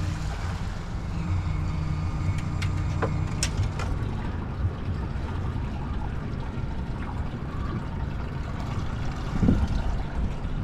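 A fishing boat's motor running steadily underway, a low hum with water and wind noise, and a few faint clicks about three seconds in.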